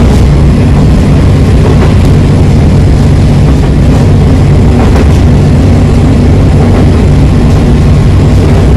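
Inside a moving local diesel railcar: a steady low engine drone mixed with the rumble of the wheels on the rails as the train runs at speed.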